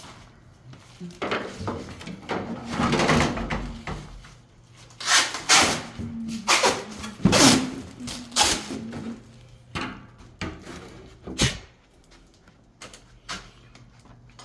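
Irregular knocks and scraping of hand work on hard materials, with several sharp strikes in the middle and one more near the end.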